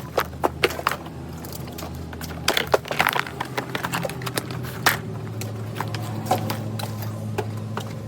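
Irregular clicks and knocks of tower fan parts being handled and pulled apart, over a steady low hum.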